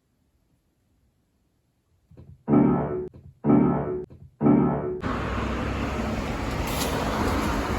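Three piano notes struck about a second apart, each ringing briefly before the next. From about five seconds in, a steady rushing noise takes over.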